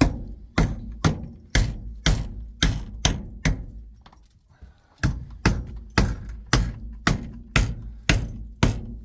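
Steady hammer blows, about two a second, each with a short metallic ring, with a brief pause about four seconds in.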